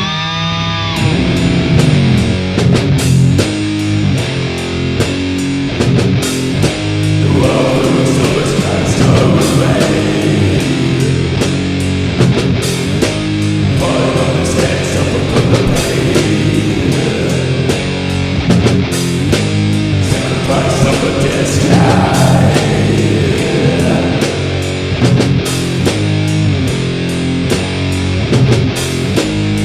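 Heavy metal song: distorted electric guitars and bass over fast, dense drumming, with harsh vocals coming in at times.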